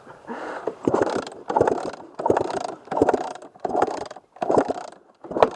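Two-stroke dirt bike engine being kicked over repeatedly, about eight quick strokes roughly one every 0.7 s, each a short rushing sound as the engine turns over. This is done to clear water from the flooded engine.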